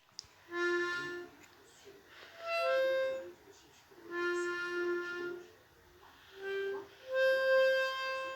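Music: a single reed or wind instrument playing a slow melody of held notes in short phrases, with brief silences between them.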